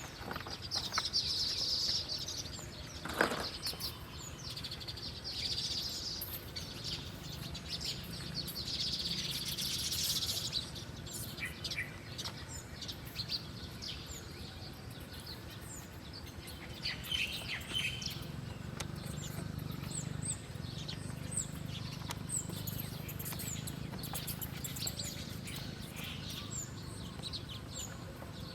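Wild songbirds chirping: many short, high, quickly falling chirps, thickest in the second half. In the first ten seconds there are a few second-long bursts of high hissing and one sharp tap.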